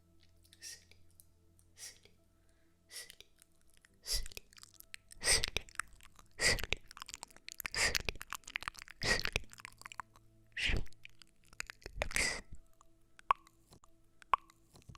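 Close-miked ASMR trigger sounds: a run of short, crisp noises about a second apart, faint at first and louder from about four seconds in, with a couple of light clicks near the end.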